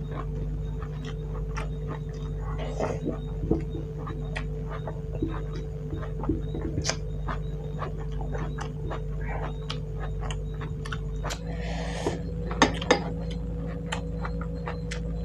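Close-miked chewing and wet mouth sounds of a person eating rice and vegetable curries by hand, with scattered clicks of fingers and food against a ceramic plate and a few sharper clicks near the end. A steady low hum sits underneath throughout.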